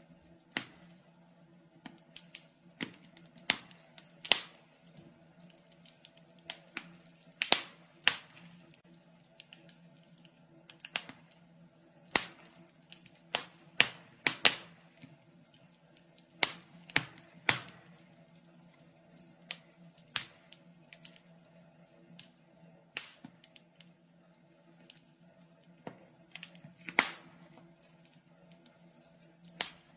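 Fireplace fire crackling, with irregular sharp pops of varying loudness, a few close together at times, over a faint steady low hum.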